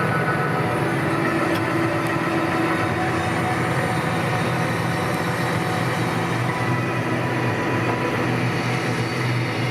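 New Holland T6.180 tractor's six-cylinder diesel engine running steadily.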